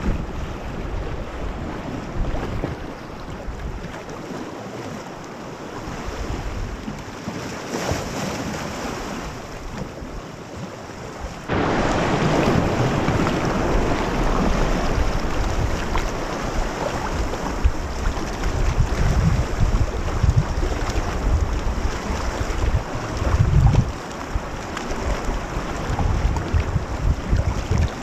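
Wind buffeting the microphone over waves splashing around a sea kayak. About a third of the way in the noise jumps abruptly louder and stays louder.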